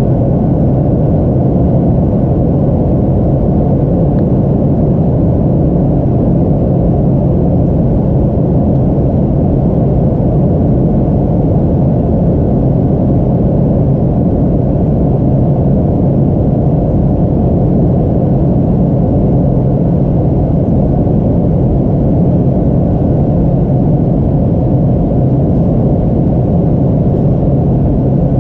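Steady low drone of an airliner's engines and airflow, heard from inside the passenger cabin, unchanging throughout.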